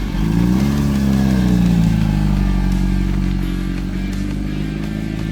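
Kawasaki Z H2's supercharged four-cylinder engine idling. The revs rise and fall back once in the first second or so, then it idles steadily.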